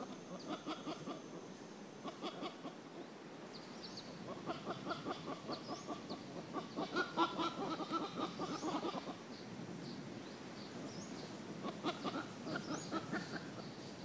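Bird calls: bursts of fast, pulsed chattering notes, loudest around the middle, with short high chirps from other birds over them.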